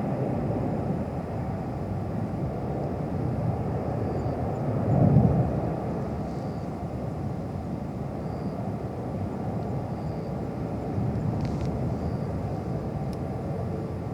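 Steady low rumble of distant jet aircraft, with a brief louder swell about five seconds in.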